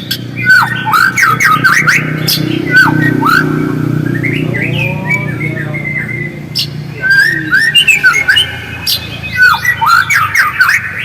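White-rumped shama (murai batu) singing in fast chattering phrases of short whistled notes that sweep up and down, mixed with sharp clicks. A low hum sits beneath the first half.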